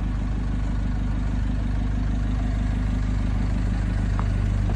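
Exhaust of a 1.9-litre diesel engine idling steadily through a rear-exit pipe with no muffler.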